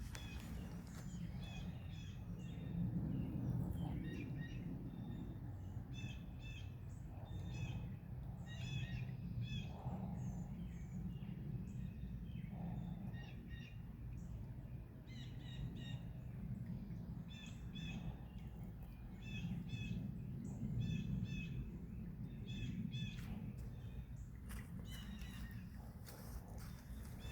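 Birds calling in clusters of short, repeated chirps over a steady low rumble.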